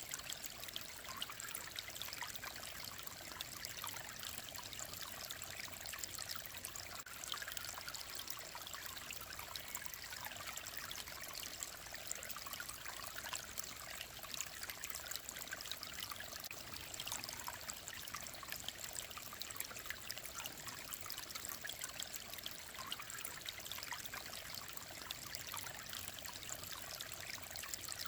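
Clear mountain stream running steadily, an even trickling rush of water with many small splashes and no breaks.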